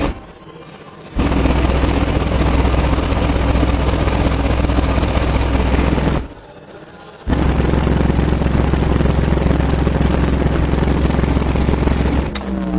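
A 15-inch Dragster DWC-258 subwoofer playing a loud, steady deep bass tone with a harsh, distorted buzz. The tone cuts out twice for about a second, and the notes change near the end.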